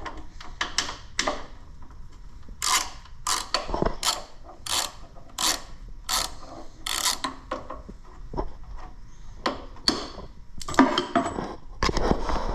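Ratchet wrench clicking in repeated short strokes, about one and a half a second, as it turns a bolt out, with a denser run of clicking and clatter near the end.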